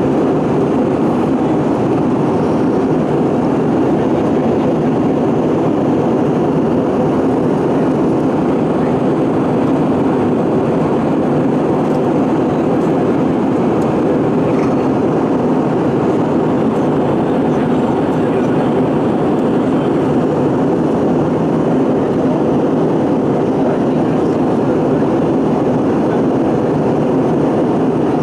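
Steady, loud rushing cabin noise of an Airbus A320 airliner in flight: engine and airflow noise heard from inside the passenger cabin.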